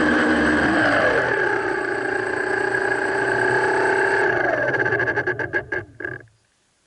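DJI F550 hexacopter's brushless motors and propellers, heard through a camera in a waterproof housing on the frame, running at a steady whine. The pitch drops as the throttle comes down, then the motors cut about six seconds in and the props spin down in a stutter of fast pulses before stopping.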